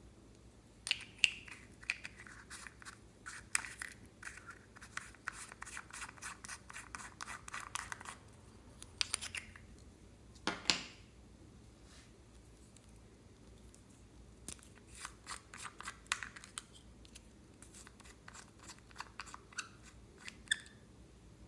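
Slime being squeezed and worked by hand, giving bursts of small crackling clicks and pops with short pauses between.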